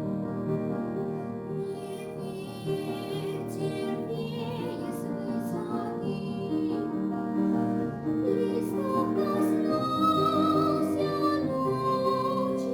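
Classically trained female voice singing a Russian art song with vibrato over piano accompaniment. The piano plays alone at first, the voice comes in about two seconds in, and it sings louder and higher near the end.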